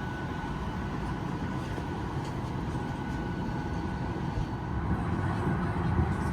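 Steady low rumble of a Boeing 737 MAX 8 airliner cabin at rest, its air systems running, with a faint constant high whine.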